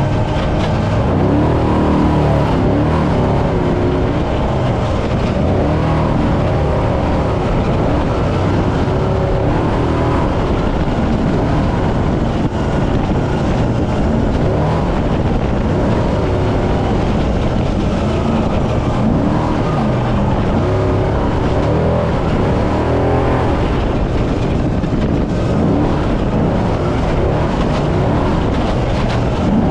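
Brenthel Class 6100 trophy truck driven hard off-road. Its engine runs continuously, the pitch rising and falling as the driver works the throttle, over a constant rumble and rattle from the truck.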